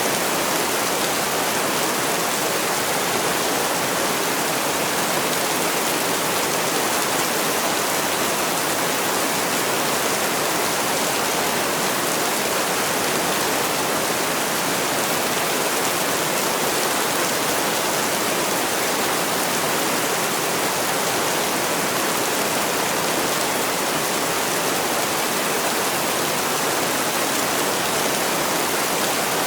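Heavy rain falling steadily, a dense even hiss without separate drops or pauses.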